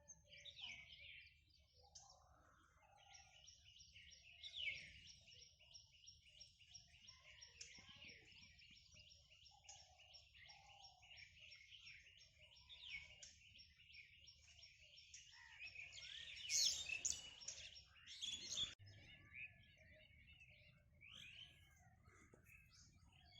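Small birds chirping and twittering in a rapid, continuous chorus, loudest a little past the middle, over a faint low rumble.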